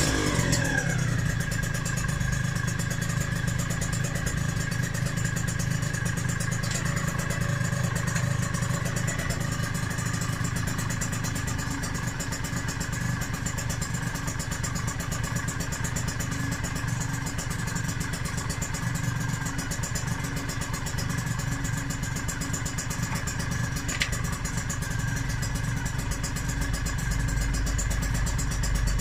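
Freshly rebuilt Yamaha DT125R two-stroke single-cylinder engine idling through its DEP expansion-chamber exhaust. Its revs drop back to idle in the first second, and it then ticks over steadily.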